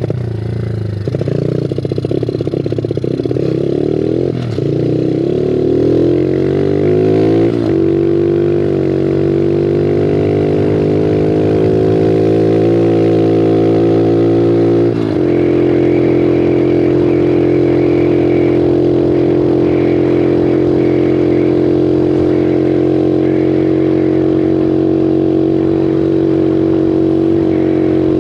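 Bigfoot 125 pit bike's four-stroke single running hard: the revs climb over the first several seconds, then hold steady and high, with a sudden shift in pitch about fifteen seconds in.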